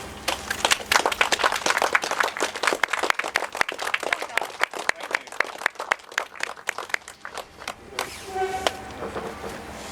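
Crowd applauding: many hands clapping, dense at first, then thinning and dying away after about seven seconds, with a few voices near the end.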